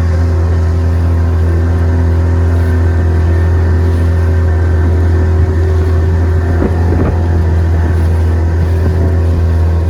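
Motorboat engine running steadily at cruising speed, a constant low drone with an even hum above it.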